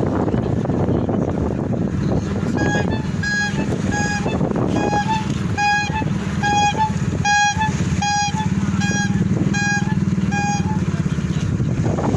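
An engine running steadily, with a run of short, high electronic beeps repeating a little under twice a second from about two and a half seconds in until near the end.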